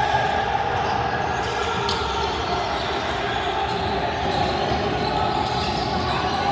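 Basketball game ambience in a large gym: a ball bouncing on the court over a steady hum of crowd noise that echoes in the hall.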